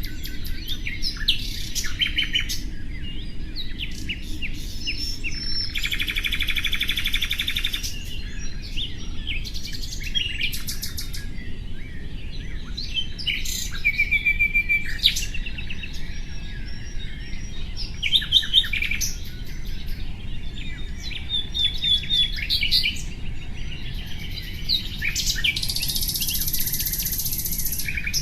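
Nightingale singing: varied phrases of rapid trills, clicks and clear whistles. A dense buzzy trill comes about six seconds in and a high rattling trill near the end, over a steady low background rumble.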